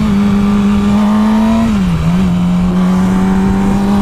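Motorcycle engine running at steady revs while riding, its pitch dipping briefly about two seconds in and then holding steady again, over wind noise on the microphone.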